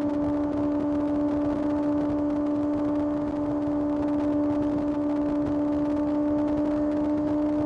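Kawasaki ZX-6R's inline-four engine running at a steady high rpm, holding one even pitch throughout.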